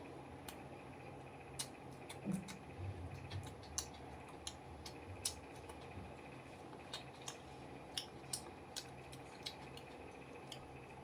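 A person eating close to the microphone: irregular crisp clicks and small wet smacks of chewing and tearing food, over a steady low hum.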